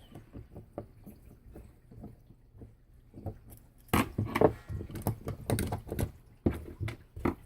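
Small clicks, taps and clatter of hand tools and rifle parts being handled during disassembly of a Well VSR-10 airsoft rifle, sparse at first, then louder and busier from about four seconds in.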